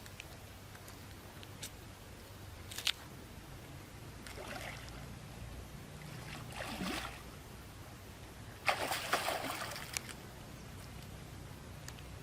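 Water sloshing and splashing in short bursts, with a few sharp clicks; the loudest splash comes about two-thirds of the way in.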